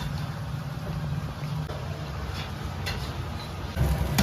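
Stir-frying meat sauce in a wok: a steady low hum of the kitchen under a few sharp clicks of a metal spatula against the wok, getting louder shortly before the end.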